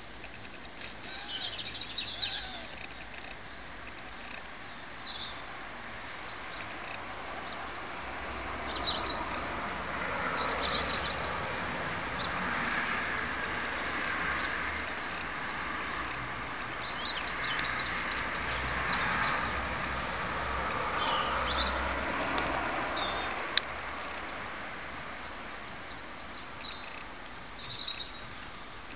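Songbirds chirping in short, high calls scattered throughout. A rushing background noise swells through the middle and fades again.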